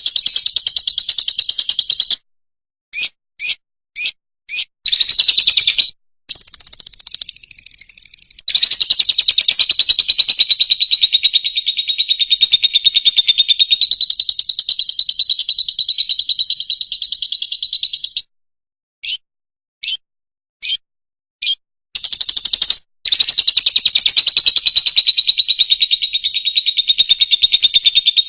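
Fischer's lovebird singing: long runs of rapid, high-pitched chattering twitter that stop abruptly, with short silences between them and two sets of four separate short chirps, a few seconds in and again about two-thirds of the way through.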